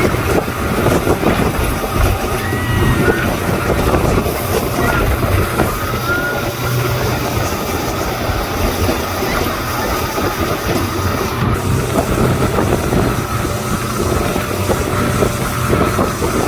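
Speedboat engine running steadily under a dense rush of wind and water noise.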